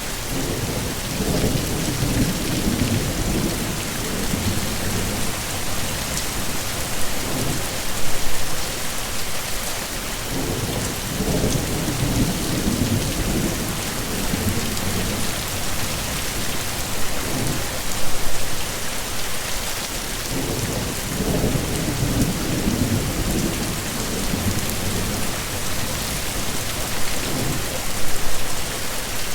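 Heavy rain falling steadily, with low rolling thunder rumbling in several waves, about every ten seconds.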